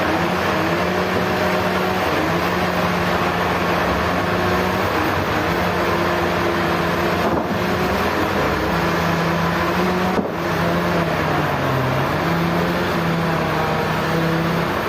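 Sawmill machinery running: a dense, steady noise of cutting over a motor hum that shifts a little in pitch as the load changes, with two brief dips about seven and ten seconds in.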